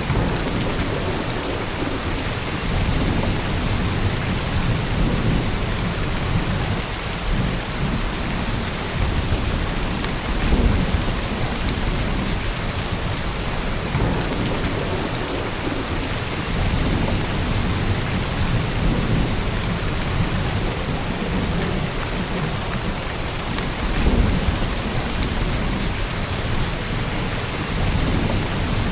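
Steady heavy rain on an old roof, with a low rumble of thunder underneath that swells twice, about a third and four-fifths of the way through.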